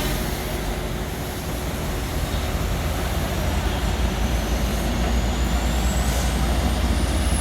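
Heavy truck's diesel engine running steadily, with a thin high whine rising in pitch from about halfway through.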